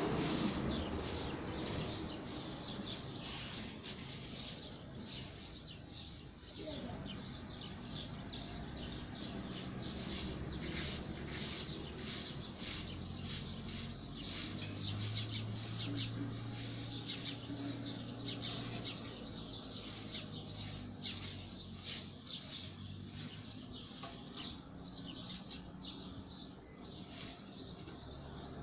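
Small birds chirping, many quick high chirps throughout. A low steady hum joins for several seconds about halfway through.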